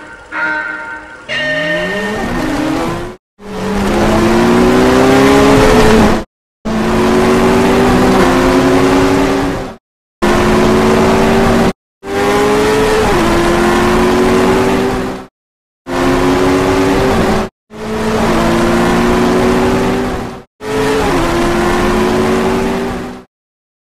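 Dubbed sound effects of racing car engines revving hard and accelerating through gear changes: each climbs in pitch and drops sharply at the shifts. The clips are cut together with abrupt short silences between them. A short countdown tone sounds in the first second.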